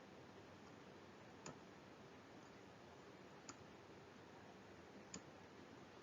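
Near silence: faint room tone with three small clicks about two seconds apart.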